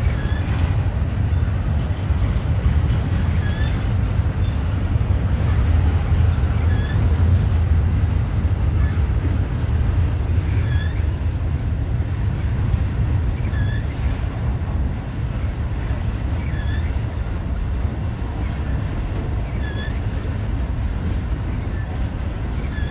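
Double-stack intermodal freight train rolling past: a steady low rumble of container-laden well cars on the rails, with short high-pitched squeaks recurring every one and a half to three seconds.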